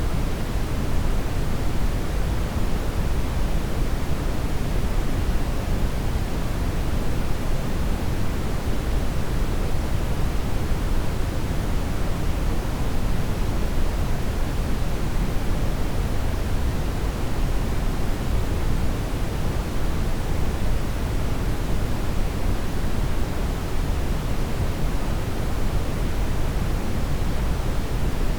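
Steady brown noise: an even, deep rumbling hiss, strongest in the low end, that does not change.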